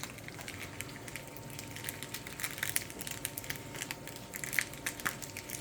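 Plastic snack bag of dried peas crinkling and crackling in the hands, with many short sharp crackles, as it is tugged at and proves hard to open.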